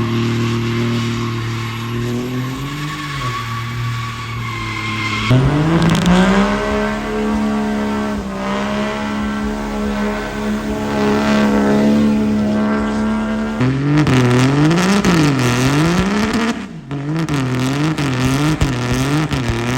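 Vehicle engines running and revving in a series of abrupt changes: long steady engine notes, then from about two-thirds of the way in the pitch swings up and down over and over as an engine is revved repeatedly.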